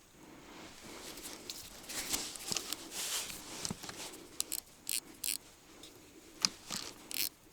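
Fishing tackle being handled: a few seconds of rustling, then a run of sharp small clicks and clinks in the second half.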